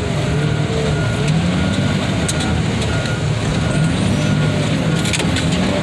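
Heavy equipment's diesel engine running, its pitch rising and falling as it works, with a backup alarm beeping over it.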